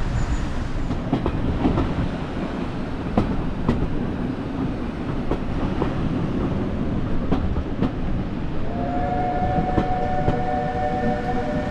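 A steam train running on the line, heard from aboard: a steady rumble with irregular clicks of the wheels over the rail joints. About eight and a half seconds in, the locomotive's steam whistle starts, one long steady toot echoing through the valley, still sounding at the end.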